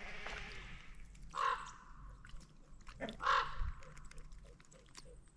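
Geese calling. There are two harsh honks, about a second and a half and three seconds in, with a run of soft, quick repeated calls between and after them.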